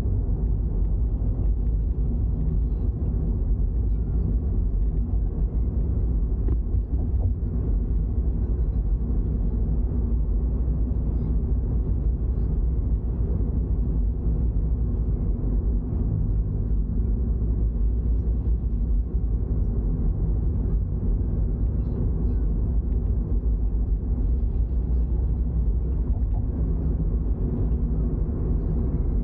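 Toyota GR86 on the move: its flat-four engine holding a steady drone under a low road rumble, with no revving.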